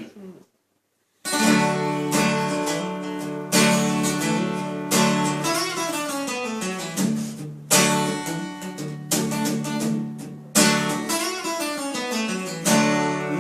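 Acoustic guitar intro: chords strummed and left to ring, a fresh strum every second or two, starting about a second in after a moment of silence.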